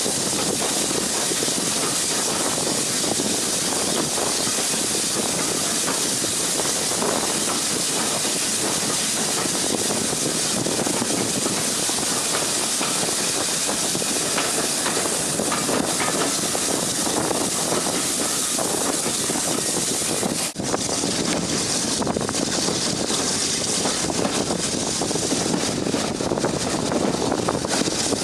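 Steam locomotive letting off steam: a steady hiss, briefly broken about twenty seconds in.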